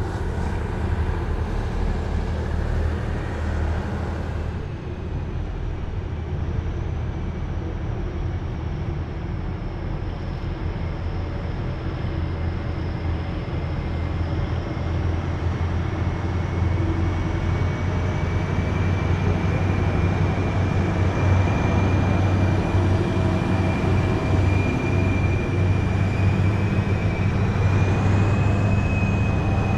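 Heavy military vehicles driving past in a column, their large diesel engines making a steady deep drone. A thin high whine rises slowly in pitch and grows stronger in the second half as the sound builds.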